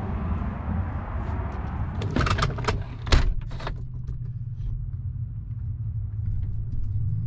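A pickup truck's engine running steadily with a low rumble, while loose items rattle and click, with a sharper knock about three seconds in.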